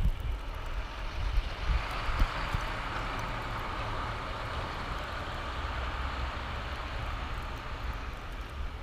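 Storm wind buffeting the microphone with a low rumble, under a broad rushing noise that swells from about two seconds in and eases off near the end.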